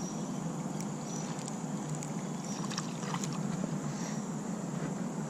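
Steady rushing noise of flowing creek water, with a few short sharp clicks.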